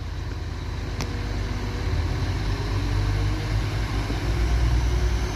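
Diesel engines of a Class 195 Civity diesel multiple unit running at a platform, growing steadily louder and shifting in pitch as the unit gets ready to depart. There is a single sharp click about a second in.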